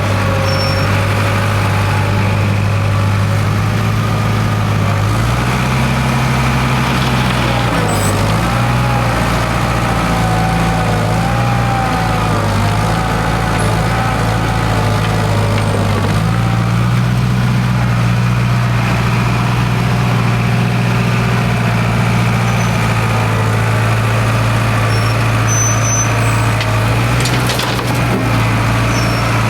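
International Harvester 270A backhoe's diesel engine running steadily, its speed stepping up about five seconds in, dipping briefly near eight seconds, and rising again around sixteen seconds.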